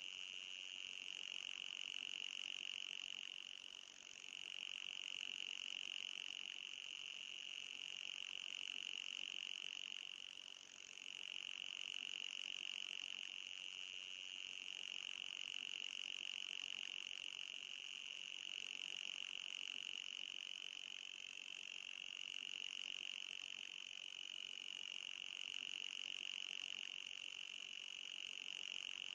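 Electronic anti-mosquito repellent tone: a steady high-pitched whine with a fainter, higher overtone. It dips briefly about four seconds in and again about eleven seconds in, and wavers slightly later on.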